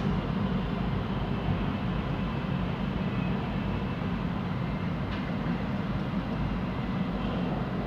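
Siemens Inspiro metro train running steadily between stations, heard from inside the carriage: an even rumble with a faint steady whine above it.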